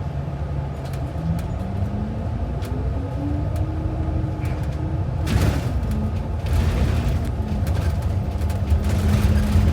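Transit bus engine accelerating, heard on board: its pitch climbs steadily for a few seconds, drops as the automatic transmission shifts up about five seconds in, then holds steady while road noise builds.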